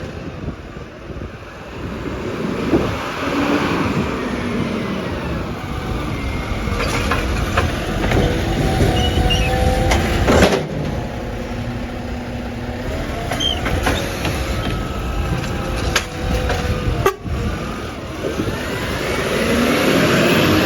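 Garbage truck working with its engine running, with a few sharp knocks about ten and seventeen seconds in. Other vehicles go by near the start and near the end.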